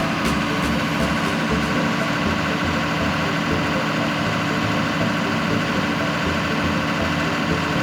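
Engine running steadily at idle, an even mechanical hum with no change in speed.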